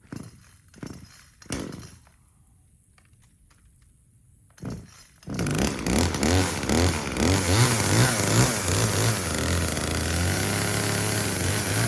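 Chainsaw being pull-started: a few short tugs on the starter cord, then the two-stroke engine catches about five seconds in and runs loud, revving up and down before holding steadier at high revs near the end.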